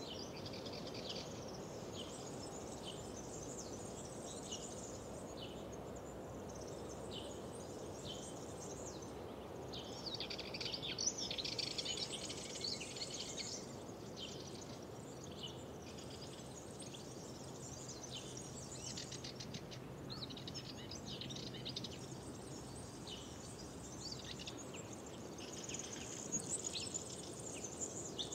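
Songbirds in spring chorus, many short chirps and trills, busiest about ten to thirteen seconds in and again near the end, over a steady low background hiss.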